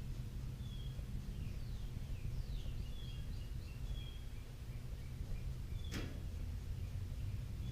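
Birds chirping in short repeated notes and quick falling calls over a steady low background hum. A single sharp click about six seconds in.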